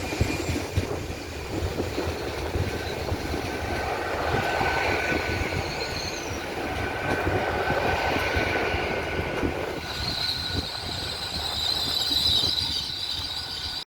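A Class 802 IET train moving through the station, with a steady rumble and wheels clicking over the rail joints. A thin high-pitched wheel squeal runs throughout and grows louder and higher near the end.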